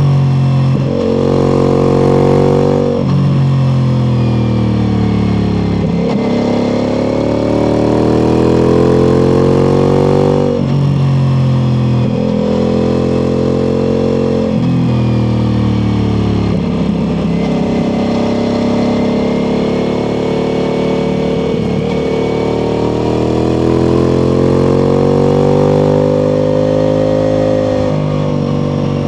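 Ducati Multistrada V4 Pikes Peak's V4 engine through an Akrapovic exhaust, under way: the engine note climbs under acceleration and drops sharply several times as gears change, with stretches of steadier running between.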